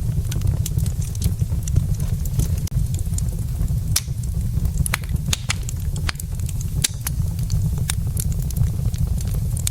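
Burning wood logs in a fireplace, crackling and popping with frequent sharp snaps at irregular moments over a steady low rumble.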